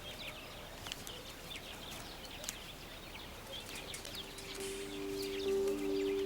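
Quiet natural ambience of many short, high bird chirps. Soft sustained music notes come in about four seconds in and grow louder.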